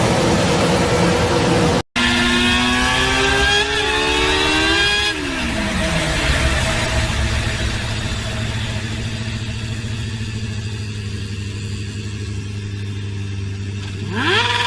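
Motor vehicle engines across short clips. One engine runs at high revs, then after a hard cut another revs up with its pitch climbing and drops away sharply. A steady low running note follows, and two quick throttle blips near the end send the pitch up and down.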